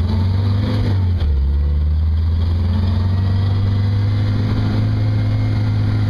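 Turbocharged 134 F-head four-cylinder engine of a Jeep CJ5 running while driving, a steady low drone whose pitch wavers briefly about a second in before holding steady.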